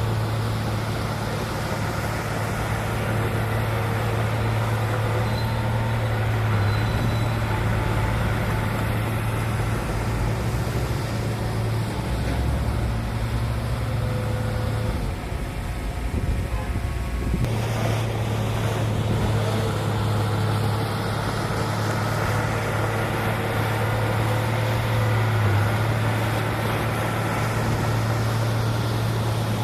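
Heavy diesel earthmoving engine running steadily, a bulldozer or dump truck at work. Partway through, the hum lowers and deepens, then changes back abruptly about 17 seconds in.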